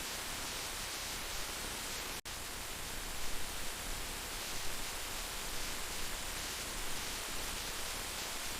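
Heavy rain falling in a steady, even hiss, broken by a split-second dropout about two seconds in.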